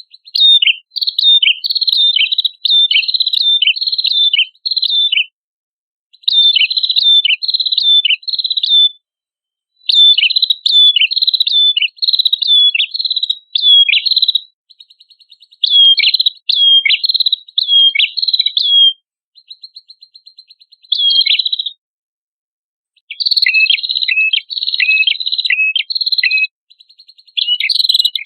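Prenjak kepala merah songbird singing: bursts of rapid, high chirping notes a few seconds long, broken by short pauses, with a fainter fast buzzing trill in some of the pauses.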